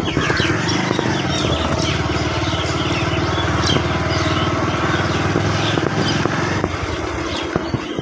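Small motorbike engine running while being ridden, a steady low putter that eases off near the end.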